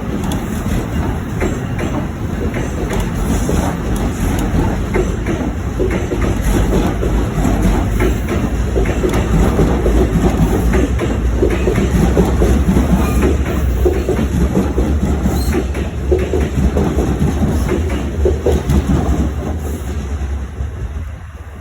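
Passenger train passing through a station: a steady rumble with wheels clicking over the rail joints, growing louder towards the middle and dropping away sharply near the end.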